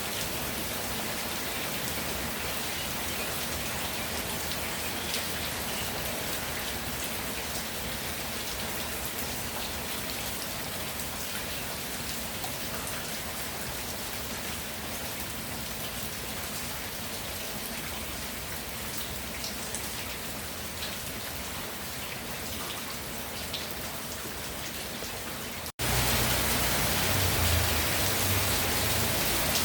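Steady rainfall, a dense even patter of raindrops. Near the end it cuts out for an instant and comes back louder and fuller, with a deeper rumble underneath.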